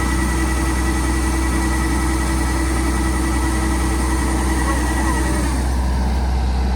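An engine running steadily with a strong low hum and a steady whine above it; the whine stops about five and a half seconds in while the engine keeps running.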